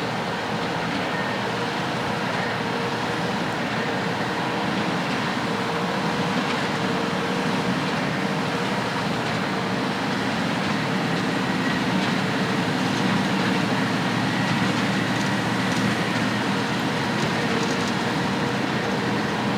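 Heavy harvest machinery running steadily: a continuous machine drone with a faint steady whine over it, growing slightly louder.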